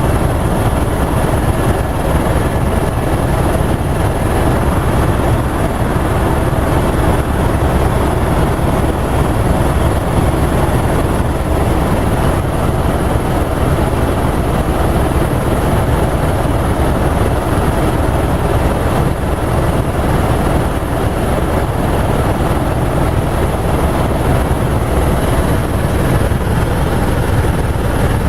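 Helicopter engine and rotor running steadily and loudly without a break, with a thin, steady high whine over the low rumble.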